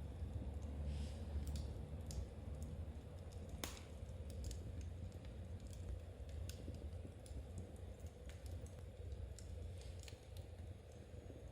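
Knitting needles clicking lightly and irregularly, with scattered crackles from a fireplace and one sharper snap about four seconds in, over a low steady rumble.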